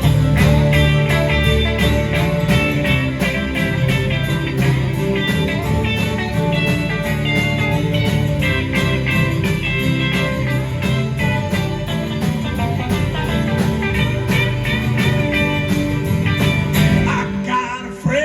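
Live rock band playing an instrumental passage: a guitar plays quick melodic lines over a steady drum beat and bass.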